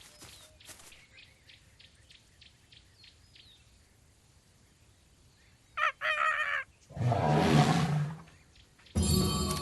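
Faint chirps and clicks, then a short pitched animal call about six seconds in and a louder, rougher animal call just after. Music starts near the end.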